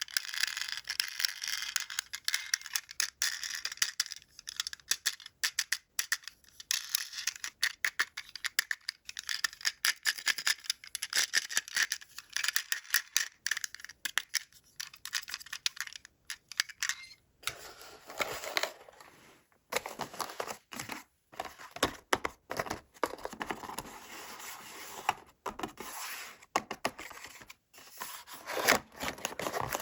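Toy packaging being handled and opened: plastic and cardboard crinkling, scraping and tearing in quick irregular bursts, turning to a fuller, lower rustle a little over halfway through.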